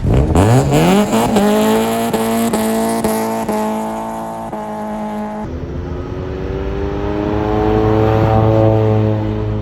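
Car engine revved sharply up and held at high revs. About five and a half seconds in, the note changes abruptly to another held rev that slowly rises and falls.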